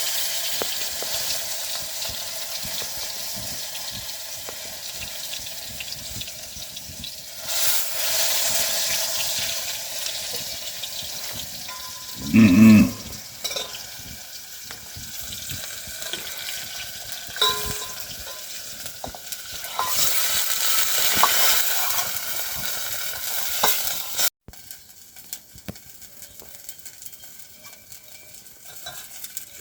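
Food sizzling in a hot pan while it is stirred, the hiss swelling and easing. A short louder sound comes about halfway through, and the sizzle is quieter over the last few seconds.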